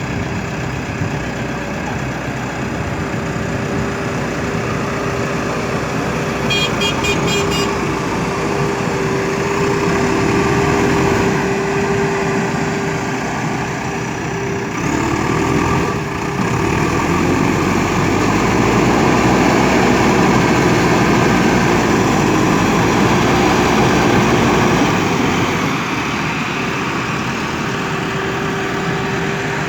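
JCB 3DX backhoe loader's diesel engine running steadily with a constant hum, louder for several seconds past the middle. A brief high-pitched pulsed beeping sounds about seven seconds in.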